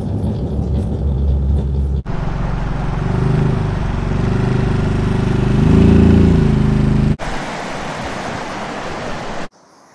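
Car engine and road noise while driving, the engine note rising and then settling back around the middle. The sound changes abruptly a few times and drops much quieter near the end.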